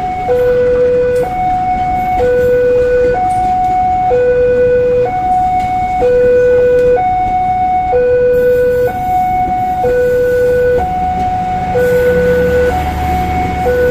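Electronic two-tone warning siren alternating evenly between a low and a high tone, each held about a second. A low rumble swells near the end.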